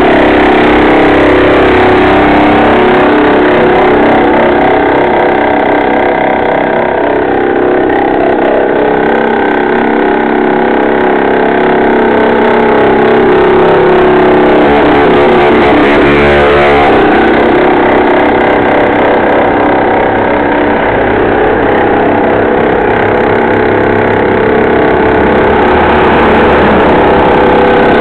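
Mini bike's small engine running hard, its pitch rising and falling as it revs up and eases off, loud and close throughout.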